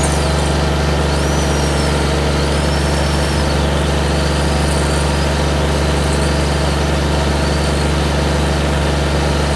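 Compact utility tractor engine running steadily with a low, even drone. Over it, a faint high whine rises and falls several times: the Oregon 40 V battery chainsaw cutting limbs.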